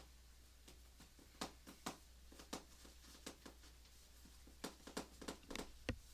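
Pencil drawing on paper: a quiet run of about fifteen short, irregular strokes and ticks, with a pause in the middle. The last stroke, near the end, carries a low knock.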